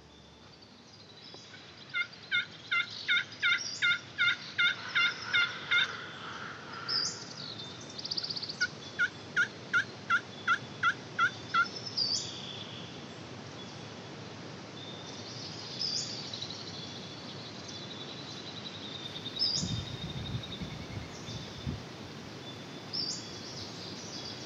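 Turkey yelping: two long runs of evenly spaced yelps, about three a second, the first starting about two seconds in and the second near the middle. Short high songbird chirps sound now and then.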